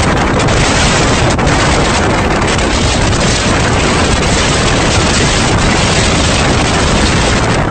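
Strong sandstorm wind blasting across the microphone, a loud, steady rushing noise with no break.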